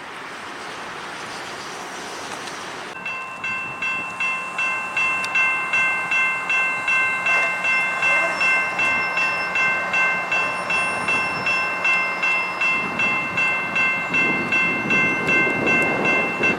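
Railroad crossing warning bell starts ringing about three seconds in, an even, rapid ding of two to three strikes a second, signalling a train approaching the crossing. Near the end the low rumble of the oncoming freight train grows beneath it.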